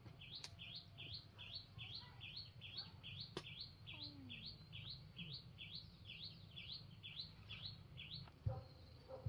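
A bird calling one short chirp over and over, a little over two a second, that stops shortly before the end, over a low rumble with a couple of sharp clicks.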